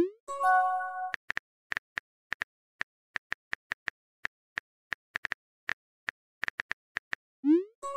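Phone keyboard typing sounds: short, regular clicks about two to three a second. Twice, at the start and again near the end, a quick rising swoosh is followed by a short chime of several held tones, the sound effect of a text message being sent or received.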